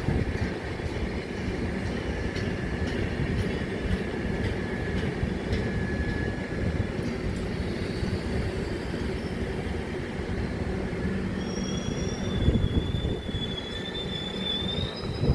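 Train running on the rails with a steady low rumble. About three-quarters of the way in, a thin high wheel squeal sets in and rises slightly toward the end.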